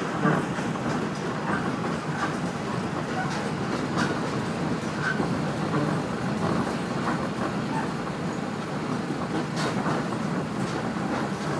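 Onboard running noise of a Kashima Rinkai Railway 6000-series diesel railcar: a steady rumble of wheels on rail, with occasional clicks as the wheels pass over rail joints.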